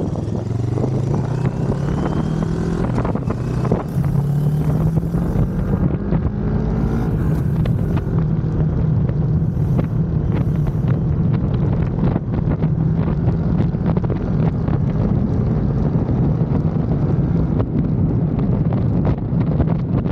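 CFMOTO 400NK motorcycle's parallel-twin engine running under way, climbing in pitch during the first few seconds, then holding a steady cruise. Heavy wind buffeting on the microphone throughout.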